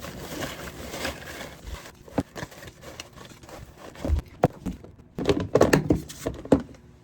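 Picture cards being pushed into a sensory bin: rustling with a series of short clicks and knocks, thickest and loudest a little past halfway.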